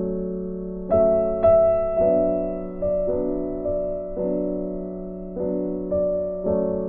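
Background piano music: gentle, slow chords struck about once a second, each ringing and fading before the next.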